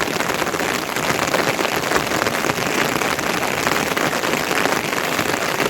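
Steady heavy rain, a dense, even patter of many drops.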